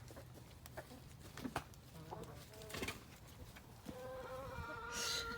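Backyard chickens: a few faint, scattered clucks and scratchy sounds, then about four seconds in a chicken starts one long, steady drawn-out call.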